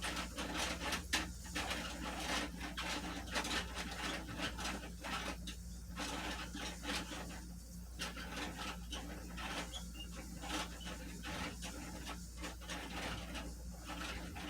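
Garbage truck compactor crushing a load of rubbish: irregular crackling, crunching and clattering over a steady low hum.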